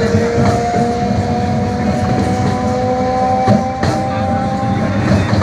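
MEMU electric train running on the track, heard from on board: a steady rumble and rattle with a whine that slowly rises in pitch and stops near the end, and a few sharp clacks of the wheels over rail joints.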